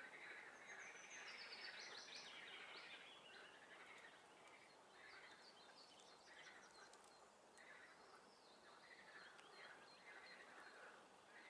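Faint spring swamp chorus of calling frogs, a steady run of repeated pulsed calls, with songbirds chirping and trilling above it, busiest in the first few seconds.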